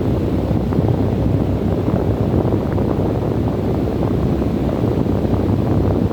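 Wind blowing steadily: a low, even rush heavy in the bass, with faint light ticks now and then.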